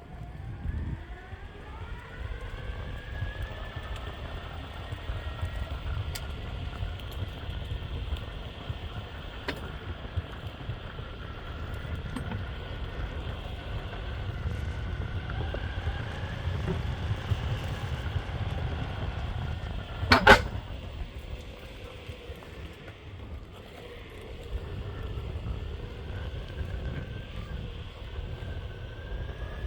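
Meepo Hurricane electric skateboard rolling on honeycomb wheels: a low, steady road rumble under a motor whine that rises in pitch as the board speeds up, near the start and again near the end. One sharp knock about twenty seconds in.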